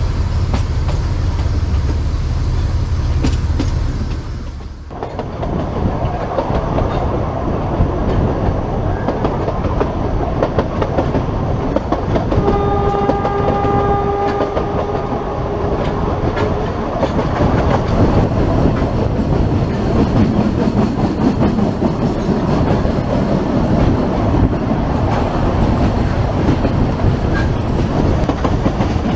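A Kangra Valley Railway 2 ft 6 in narrow-gauge train running, its wheels clattering over the rails, heard from an open coach window. The locomotive's horn sounds one steady note for about four seconds in the middle. A deep low rumble fills the first five seconds and stops suddenly.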